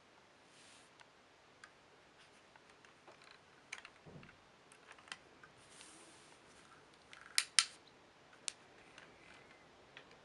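Faint scattered clicks and brief rustles of small objects being handled, with a sharp double click about seven and a half seconds in.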